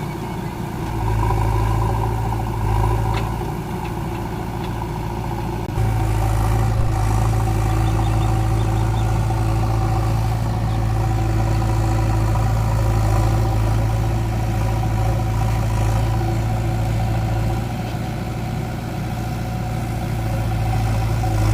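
Heavy diesel engine running steadily with no breaks, the load changing: it gets louder about a second in, eases, steps up again about six seconds in, and eases off near the end.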